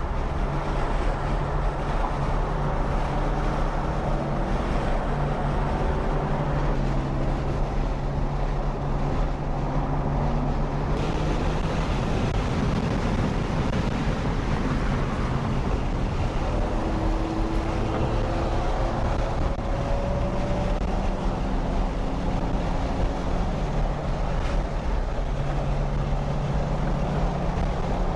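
Porsche 911 (992) engine and road noise heard from inside the cabin while cruising at a steady pace, a low even drone whose pitch drifts slightly, with wind and tyre hiss.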